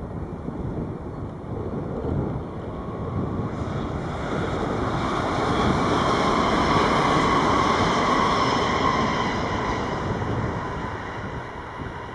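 NS VIRM double-deck electric train passing: its running noise swells to a peak past the middle and then fades away.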